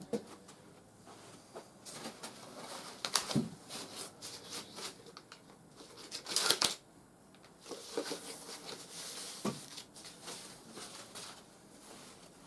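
Packaging being handled during unpacking: wrapping rustling and crinkling, with scattered light clicks and knocks and one louder rustle about halfway through.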